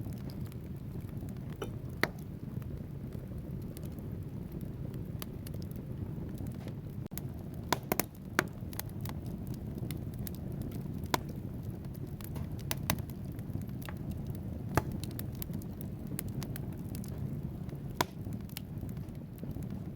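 Wood fire burning in a fireplace: a steady low rumble of flames with irregular sharp crackles and pops from the logs. There is a quick cluster of snaps about eight seconds in, and single louder pops near the start and toward the end.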